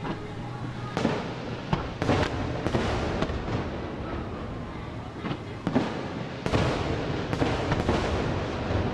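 Fireworks display: aerial shells bursting in a string of sharp bangs, about a dozen, with crackle between them. There is a quieter lull in the middle before the bangs pick up again.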